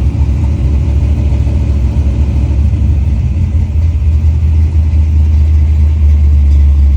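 1971 Chevrolet Nova's engine idling after a cold start: a loud, steady low rumble that grows slightly louder and smoother in the last second or so.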